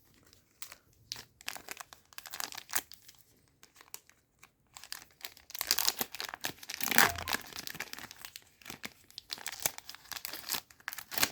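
Crinkling and crackling of a foil trading-card booster pack wrapper being handled, a rapid irregular run of crackles that gets densest and loudest around the middle.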